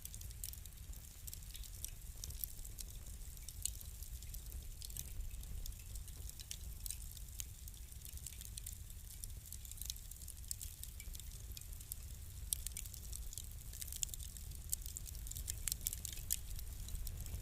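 Fire crackling: irregular sharp pops and snaps over a low steady rumble, coming more often and louder near the end.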